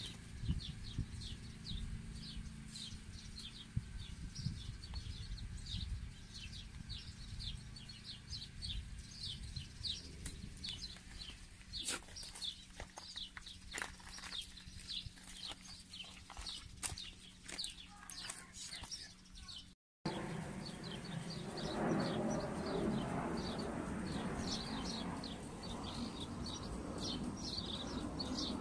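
Small birds chirping: a quick, steady run of short high calls over a low background rumble. The sound drops out for a moment about twenty seconds in, then the chirping goes on over a broader hiss.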